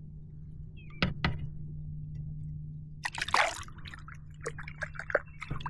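Bass being released back into the lake from a small boat: two light knocks about a second in, a splash about three seconds in, then water dripping and trickling.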